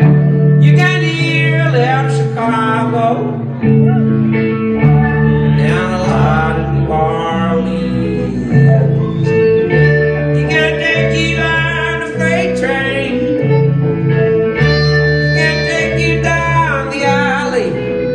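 Live band music in an instrumental stretch: a guitar lead with bending, wavering notes over a bass line that changes note every second or two.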